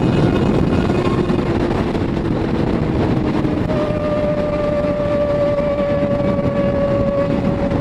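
Kawasaki ER6n motorcycle engine running at speed on a straight, high in the gears, mixed with heavy wind rush on the helmet microphone. The engine note changes about three and a half seconds in, then holds steady.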